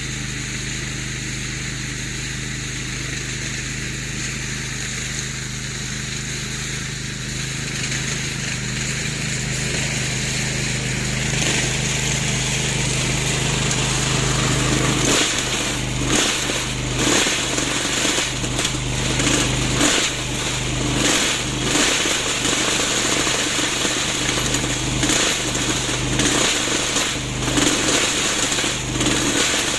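Remote-control lawn mower's motor running steadily. About halfway through the sound turns uneven and rises and falls, with many sharp knocks.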